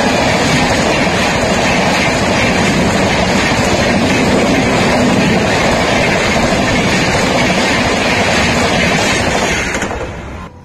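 Express passenger train's coaches rushing past at speed, a loud continuous rumble and rattle of wheels on the rails. The noise falls away near the end as the last coach clears.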